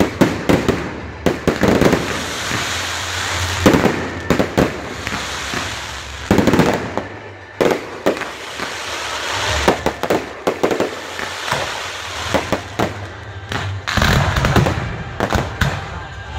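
Aerial fireworks display: shells and launched effects going off in quick succession, a run of sharp bangs with noise between them, heaviest toward the end.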